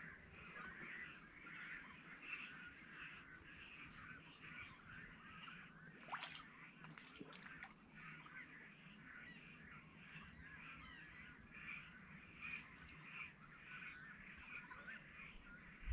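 Faint calls and chirps of birds in the mangroves, steady throughout, with one sharper rising call about six seconds in.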